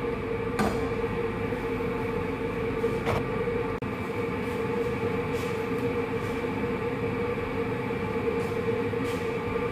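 Steady rumbling hum from stovetop cooking, with a lidded pan of chicken and bell peppers steaming over the heat. A constant tone runs through it, and there are two faint ticks.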